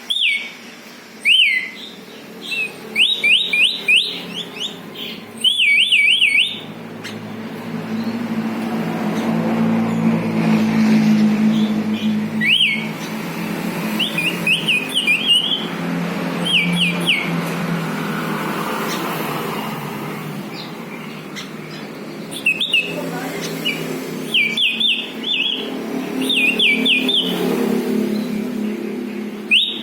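Sooty-headed bulbul singing: short, clear whistled notes that each slide down in pitch, given in quick runs of three to five with pauses between runs. Under it runs a steady low rumble, swelling around the middle.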